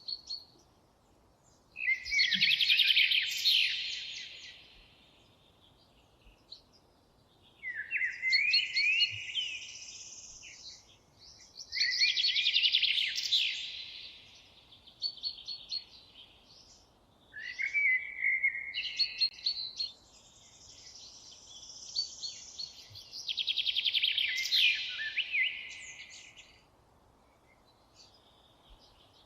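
A songbird singing in the forest, repeating a loud, high song phrase every four to five seconds. Each phrase lasts about two seconds, opening with quick rising notes and running into a fast trill, with a faint steady hiss between phrases.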